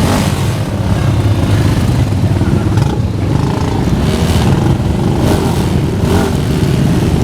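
Motorcycle engines running together at low revs, a steady loud drone with a few brief rises, as a group of motorcycles sets off.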